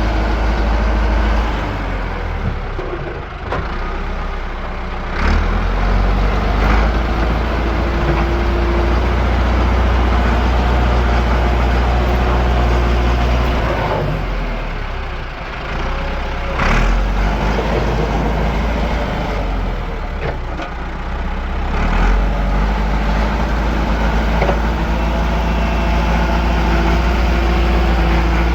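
Engine running steadily with a deep rumble. Its sound dips and shifts a few times, about 3, 15 and 21 seconds in.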